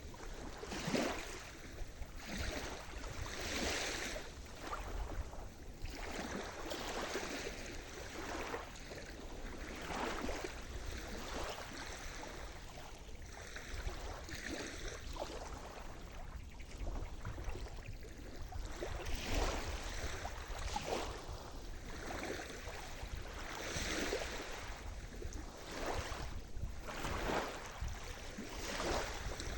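Sea surf: waves breaking and washing up the shore, the rush swelling and easing again every few seconds, over a steady low rumble.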